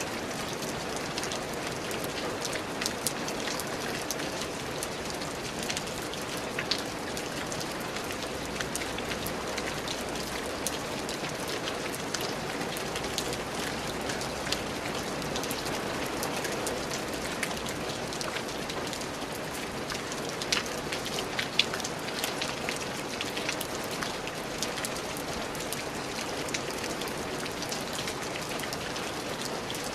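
Steady rain falling, with many individual drops pattering on a hard surface and a few louder drips about two-thirds of the way through.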